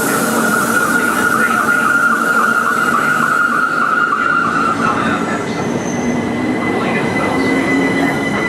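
Electric multiple-unit train running through the station with a continuous rumble and a loud, wavering high squeal that fades about five seconds in. A thin, steady, higher whine follows.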